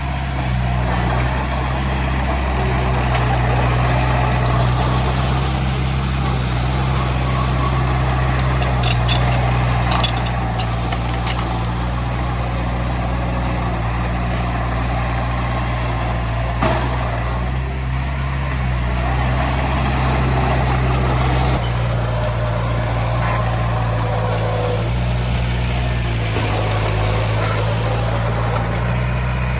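Heavy diesel engine of earthmoving equipment running steadily under work, with a few short clanks about a third of the way in and once more past the middle.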